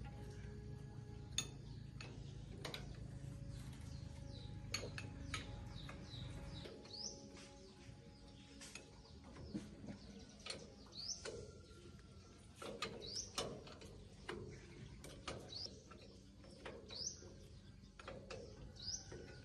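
Intermittent sharp clicks and knocks of hand tools on metal parts, with a low hum that stops about six seconds in. Short rising high chirps repeat every second or two through the second half.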